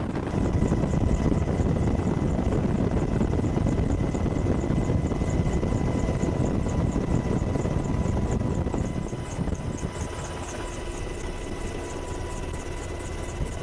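AH-64 Apache helicopter's rotor and turbine engines running steadily. The rotor gives a fast, even pulse, and the sound eases off somewhat about nine seconds in.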